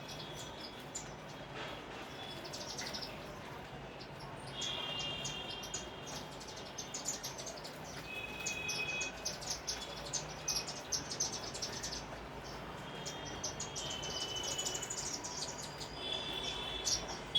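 Sparrows chirping: many short, quick chirps overlapping throughout, with brief clear notes here and there.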